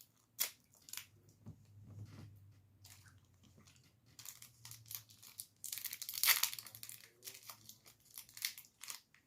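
Plastic snack wrapper being crinkled and torn open in a run of short crackles, loudest about six seconds in.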